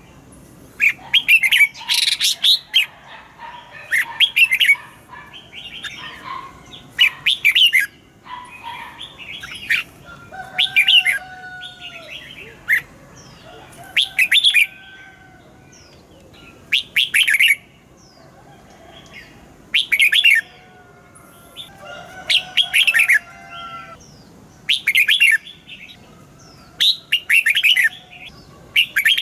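Red-whiskered bulbul singing: short, loud chirping phrases repeated every two to three seconds, with softer gliding calls in between.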